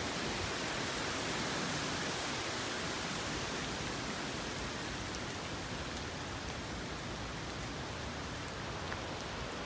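Steady rain falling on the leaves of trees and shrubs, an even hiss with the odd single drop ticking through.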